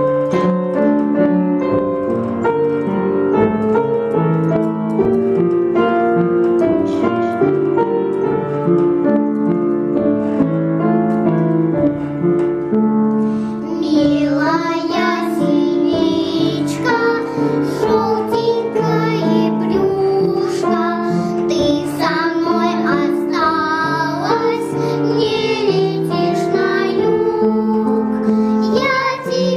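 A song with piano accompaniment: the piano plays alone for about the first thirteen seconds, then a voice starts singing over it.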